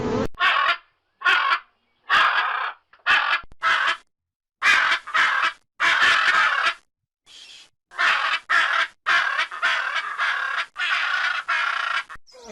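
Harsh bird calls: a long series of short, rasping calls with brief silent gaps between them and a longer pause a little past the middle.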